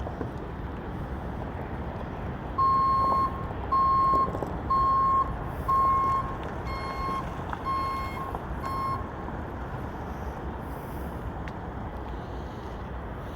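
Vehicle backup alarm beeping about once a second, seven beeps, the first four loud and the rest fading as the vehicle backs away, over a steady low rumble.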